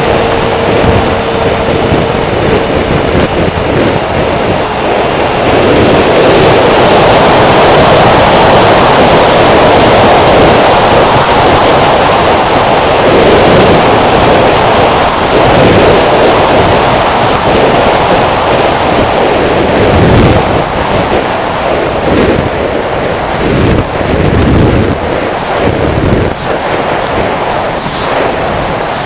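An RC tricopter's electric motors and propellers running: a steady whine for the first few seconds, then a loud rushing noise. Low buffeting thuds of wind on the microphone come in over the last third.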